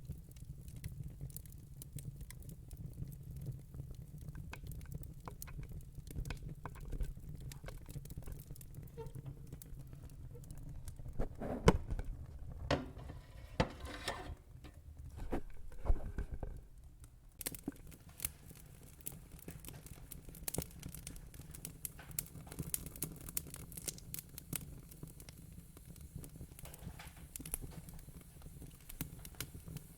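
Wood fire crackling: scattered sharp pops and snaps over a steady low rumble, with a louder, busier run of pops about halfway through.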